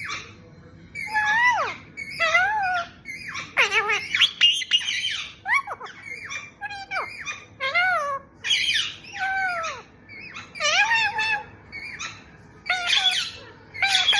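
Parrot squawking and calling: a long series of short calls that bend up and down in pitch, coming in quick bouts with brief pauses between.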